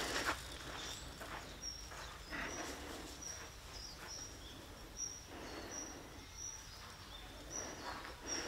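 Small bird giving short, high chirps at one steady pitch, repeating about two a second, over faint outdoor background with a few soft footsteps.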